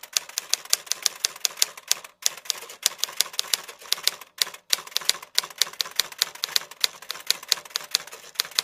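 Typewriter keys clicking rapidly, about five strikes a second, with two short pauses.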